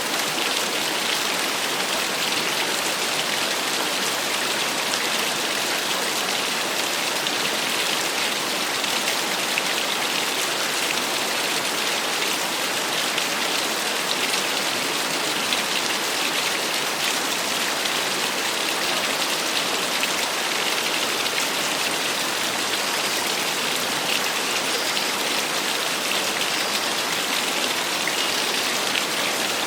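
Small waterfall: a steady, even rush and splash of falling water with no change in level.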